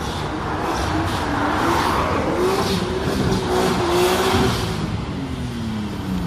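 Car engine revving, its pitch rising and falling several times, then dropping steadily near the end as it eases off or drives away.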